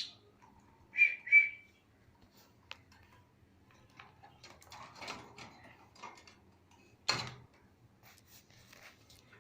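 Lovebirds chirping: two sharp, high chirps about a second in, soft chattering and clicks in the middle, and one louder, harsher call near the end.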